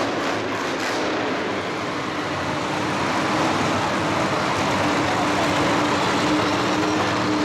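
Loud motorsport show vehicle engine running with a steady drone inside a dense wash of noise. A fast pulsing in the upper range fades out about a second in.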